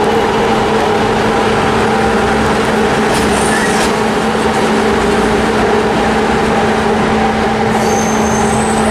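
Passenger train hauled by an electric locomotive pulling slowly away, with a loud steady hum at an unchanging pitch. A couple of faint high squeaks come near the end.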